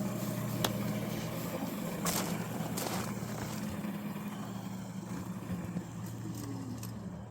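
Traction motor of a small 500-watt electric ride-on locomotive running with a steady hum; the motor is damaged and overheating to the point of smoking. A few sharp clicks and knocks sound over it early on and around two to three seconds in.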